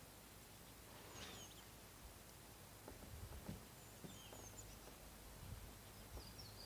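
Near silence outdoors, with faint high bird chirps a few times and a few soft ticks.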